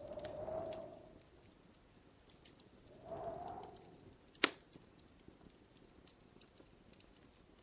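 Wood fire crackling in a fireplace, with small snaps scattered throughout and one loud, sharp pop about four and a half seconds in. Two short rushing swells, each about a second long, come right at the start and around three seconds in.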